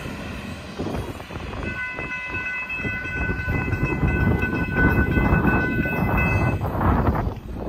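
Florida East Coast intermodal freight train rumbling as it runs away down the line, its horn sounding one long steady blast from about two seconds in until near the end.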